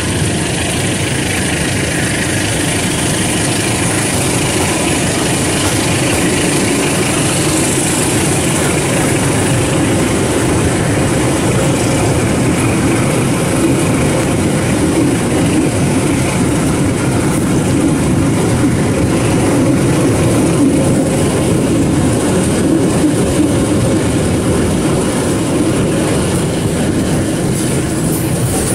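Blora Jaya passenger train running at speed, heard from on board: a steady, even rumble and rush from the moving train.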